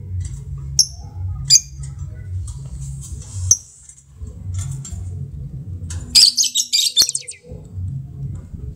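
Lovebirds calling in sharp high chirps, then about six seconds in a dense burst of rapid chattering lasting about a second, the 'ngekek' trill. A low pulsing rumble runs underneath.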